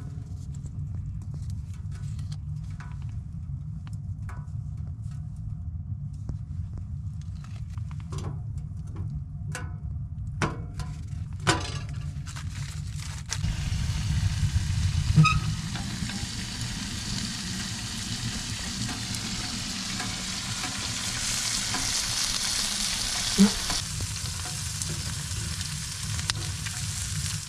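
Beef burgers sizzling in a frying pan on a wood stove, a steady hiss that starts about halfway through and grows stronger. Before that there is a low steady rumble with a few sharp clicks and taps.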